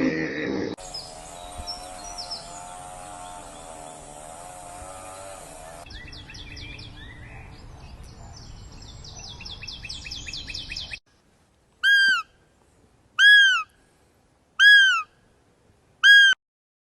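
A run of edited animal clips: a wavering pitched call, then birds chirping rapidly. After a sudden cut come four loud owl calls, each short and arched in pitch, about a second and a half apart.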